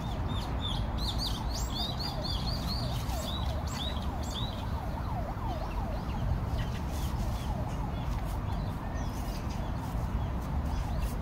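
Wild birds chirping: a quick run of high repeated chirps in the first few seconds, and many short downslurred calls throughout, over a steady low background rumble.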